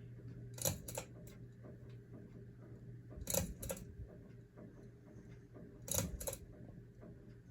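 Hunter Avignon ceiling fan's speed switch clicking, a pair of sharp clicks about every two and a half seconds, four pairs in all, over a low steady motor hum that drops somewhat about halfway through.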